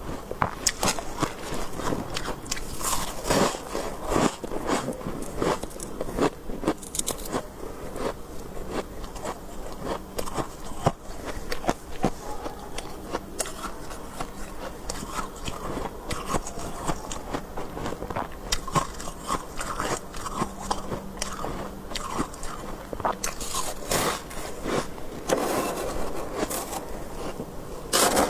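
Close-miked biting and chewing of soft, powdery freezer frost, giving many irregular crisp crunches.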